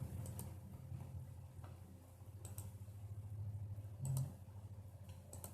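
Faint, scattered clicks, a handful in all, over a low, uneven hum.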